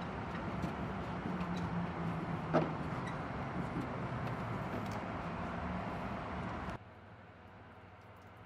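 A motor or engine running steadily, with a faint steady tone. It cuts off abruptly about seven seconds in, leaving a much quieter background.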